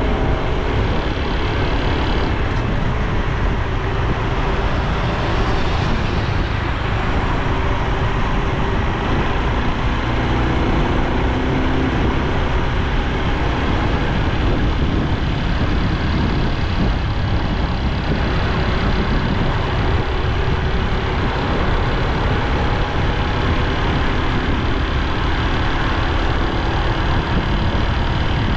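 Honda Super Cub C125's 125 cc single-cylinder engine and exhaust running steadily under way, mixed with a dense, even rush of road noise.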